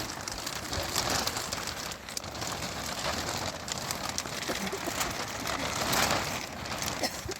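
Rain falling steadily, with scattered small crackles through it.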